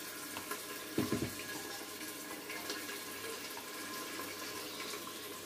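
Partly frozen sofrito sizzling in hot oil in an electric multicooker's pot, a steady hiss, with a few knocks of the spoon about a second in.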